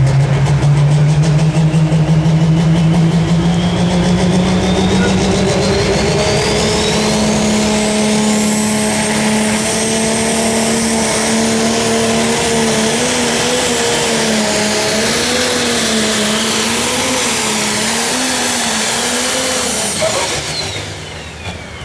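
Pro stock pulling tractor's turbocharged diesel engine under full load on a pull. Its pitch climbs over the first several seconds along with a high turbo whine, then holds with a wavering note before it drops off near the end.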